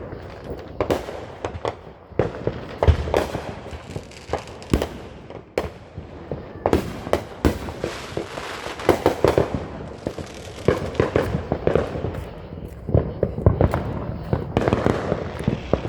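Raging Rottweiler consumer firework going off: an irregular string of sharp bangs and crackles, several a second, continuing throughout.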